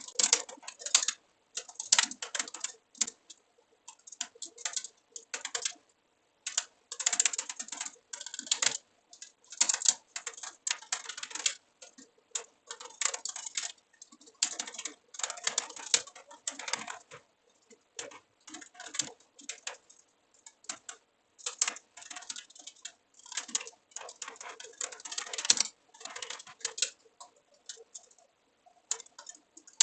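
Typing on a computer keyboard: rapid runs of key clicks in bursts of a second or two, broken by short pauses.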